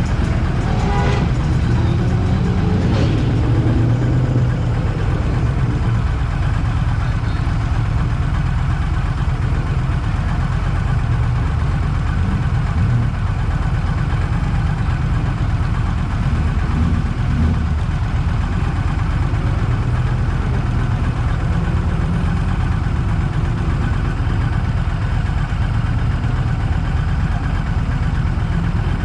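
A car engine running steadily, with a low, even drone and no revving.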